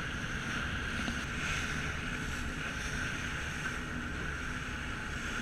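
Car ferry under way, its engines running with a steady drone and low rumble, with wind blowing across the microphone.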